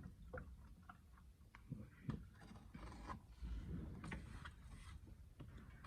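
Faint handling sounds: scattered light clicks and soft rubbing, over a low rumble.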